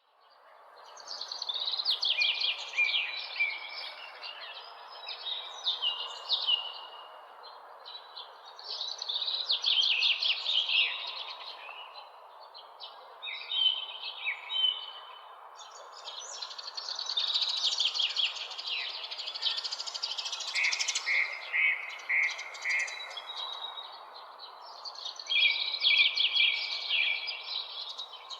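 Songbirds singing in the morning: rapid chirping phrases come every few seconds over a steady background hiss.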